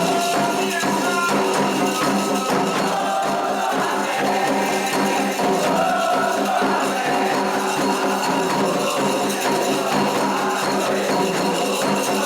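Percussion music at a steady level, with a fast, even rhythm of jingling, shaker-like strokes over drums and a wavering melody line.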